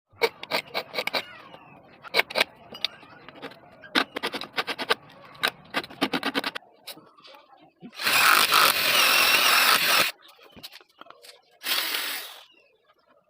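Workshop tool sounds: a rapid run of sharp knocks and clicks, then a loud, hissing noise for about two seconds and a shorter burst of it near the end.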